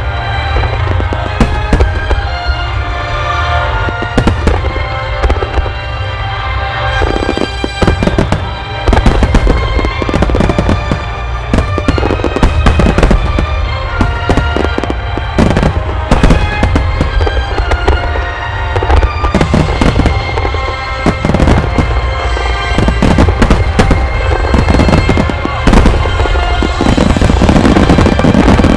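Aerial fireworks shells bursting in rapid, irregular bangs over a continuous low rumble, with music playing alongside. The bursts thicken into a dense, loud barrage near the end.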